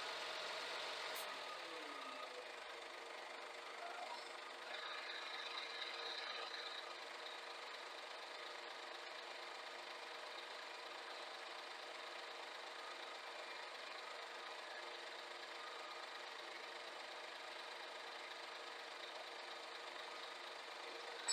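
Scania G410 truck's diesel engine running steadily at idle, its revs dropping in the first couple of seconds.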